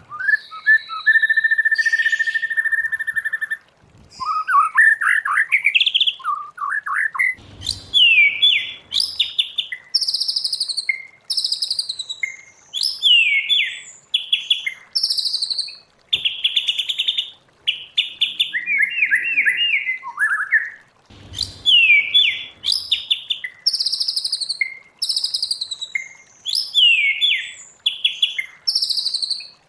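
White-rumped shama singing a varied song. It opens with a long, steady whistle, then moves to rising slurred notes and quick runs of repeated notes, delivered in short phrases separated by brief pauses.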